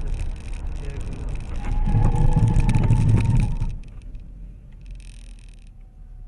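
Road and engine noise of a moving car, recorded from inside it, swelling to a louder low rumble about two seconds in. It drops off suddenly to much quieter road noise a little before four seconds in.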